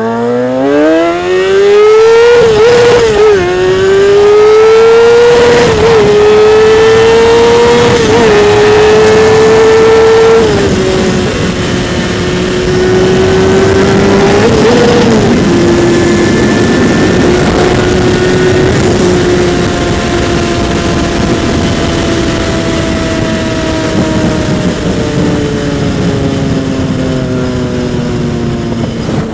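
Kawasaki ZX-6R 636 sportbike's inline-four engine accelerating hard. The pitch climbs steeply and dips briefly at each upshift, about three and six seconds in. The engine is loudest over the first ten seconds, then settles to a steady cruise, and its pitch slowly falls over the last ten seconds as the rider eases off, with wind rushing over the helmet microphone.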